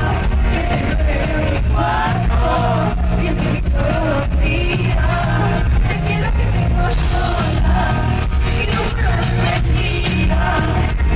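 Live pop concert music heard from the audience in an arena: a singing voice over a heavy, steady bass beat.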